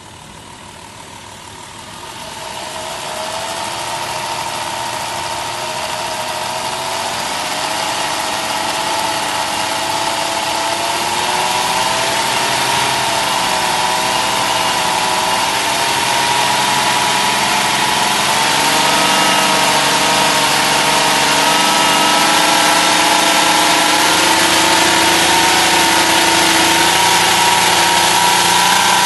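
2007 Chrysler Town & Country's 3.8-litre V6 revved up from idle about two seconds in, then held at high engine speed, its pitch slowly climbing and the sound getting steadily louder. It is a held-rev vacuum test, with the exhaust suspected of being plugged at the catalytic converter.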